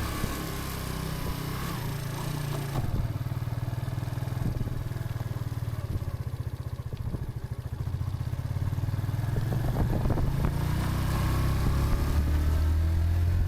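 125cc motorcycle engine on the move: the revs fall in the first second or so, run low with an even pulsing beat through the middle, then climb again as it accelerates over the last few seconds.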